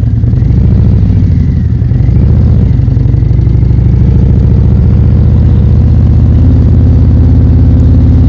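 Motorcycle engine running under way. Its pitch shifts a little in the first few seconds, then holds steady.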